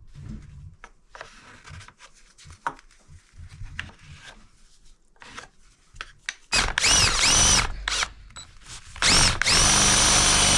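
Power drill boring into the wood framing of a ceiling. After some light handling knocks and clicks, it runs in a few short trigger pulls with the motor whine rising and falling, then runs steadily near the end. The bit is one the driller calls not great.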